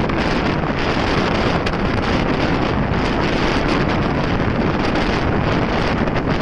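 Wind rushing over the microphone of a moving motorcycle: a loud, steady rush with small irregular buffets.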